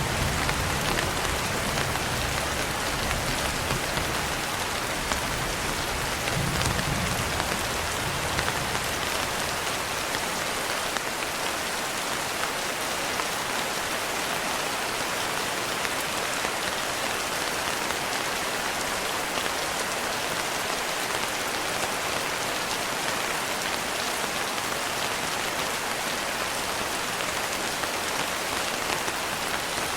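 Steady heavy rain falling. A low rumble of thunder fades out in the first second and returns briefly about seven seconds in.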